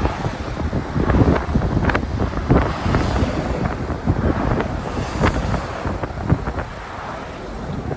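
Wind buffeting the microphone: an uneven low rumble with frequent sharp gusts.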